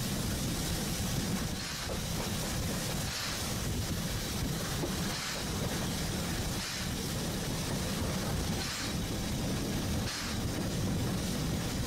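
Oigawa Railway train running along the line, a steady rumble of wheels and car body heard from on board, with a faint clack every couple of seconds as the wheels pass rail joints.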